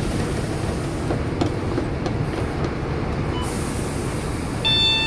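Steady low rumble of a Scania K230UB single-deck bus's nine-litre five-cylinder diesel and drivetrain, heard from inside the cabin, with light rattles. Near the end an electronic tone starts.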